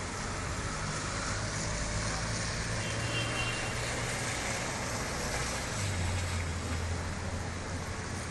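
A motor vehicle's engine running, its low hum dropping lower about six seconds in, over a steady hiss.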